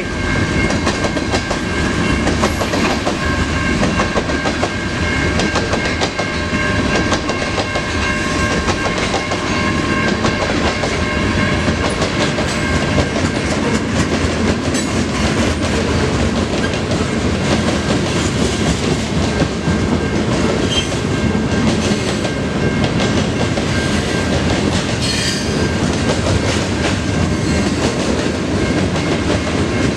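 Freight cars of a long mixed freight train rolling steadily through a grade crossing, wheels clattering over the rail joints. A steady ringing tone from the crossing's Siemens low-pitch electronic bell sounds over the rumble.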